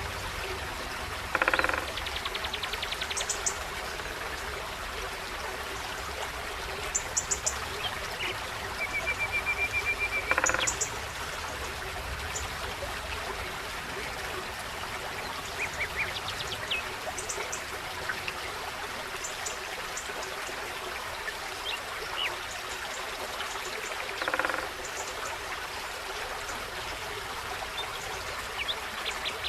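Forest stream running steadily, with birds calling over it: scattered high chirps, a short even trill about nine seconds in, and two louder calls, one near the start and one late on.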